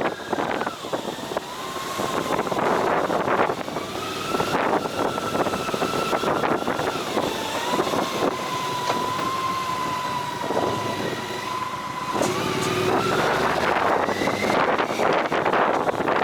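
Motorcycle riding on the road: wind rushing over the microphone with a whining engine note that holds steady, drops about seven seconds in and climbs again near the end as the revs change.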